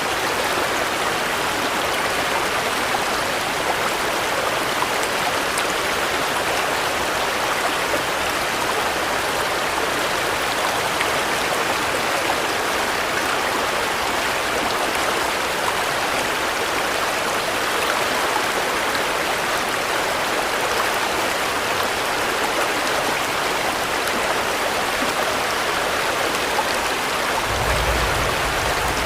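Steady rain falling as an even, unbroken hiss of water. A brief low rumble comes in near the end.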